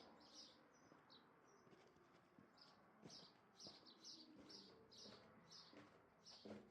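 A small bird chirping faintly over and over, short high chirps about two to three a second, with a few soft knocks.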